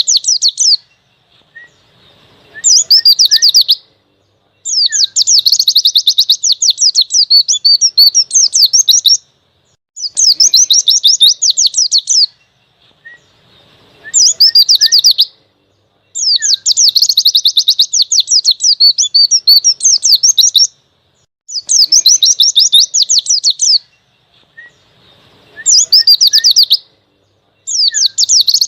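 White-eye (pleci) singing its wild-style 'ngalas' song: bursts of fast, high twittering a few seconds long, repeated again and again with short pauses between them.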